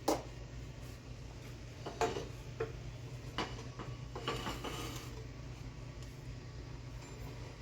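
Utensils knocking and scraping against dishes while food is served onto a plate: a few sharp clinks about two, three and four seconds in, over a steady low hum.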